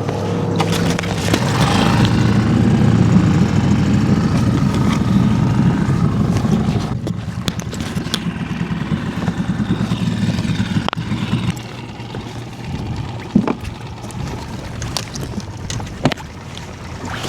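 Boat motor running under way with rushing water and wind noise, then easing off about two-thirds of the way through, followed by a few sharp knocks.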